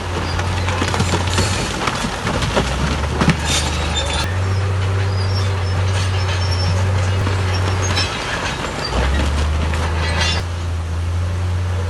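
Heavy diesel earthmoving machinery running with a steady low drone whose engine speed drops and picks up again several times. Metallic clanks and squeaks sound over it, the sharpest a clank about three seconds in.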